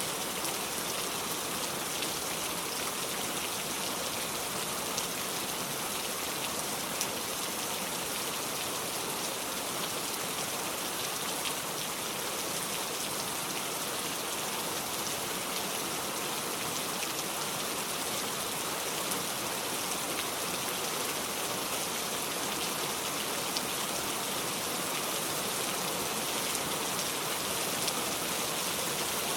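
Heavy rain falling steadily on a metal roof, an even hiss with scattered sharp drop ticks.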